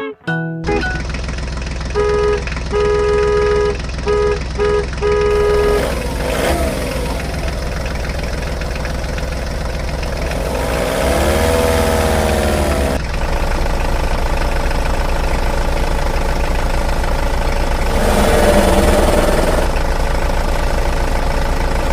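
Vehicle engine running steadily as a cartoon sound effect, with a series of short horn toots about two to five seconds in and a few rising-and-falling pitch glides later on.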